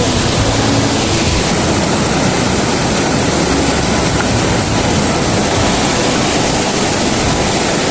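A river rushing steadily, a loud unbroken wash of flowing water.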